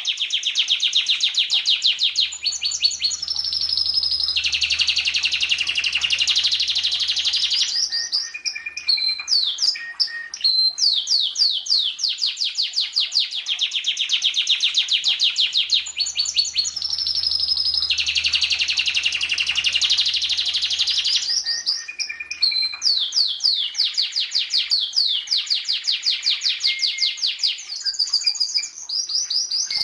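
Domestic canary singing a continuous song of rapid trills made of quick downward-sliding notes, changing from one trill type to the next; the same sequence of phrases repeats about every 13 to 14 seconds, as in a looped tutoring recording.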